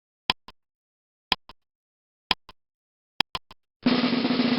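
Sharp ticks about once a second, each followed by a softer one. Near the end they quicken to three quick ticks, then a snare drum roll starts.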